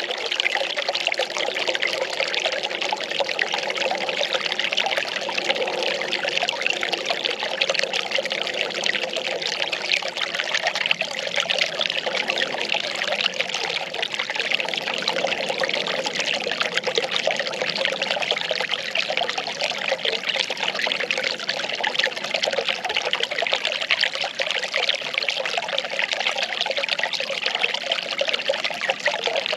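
Well water pouring and trickling steadily.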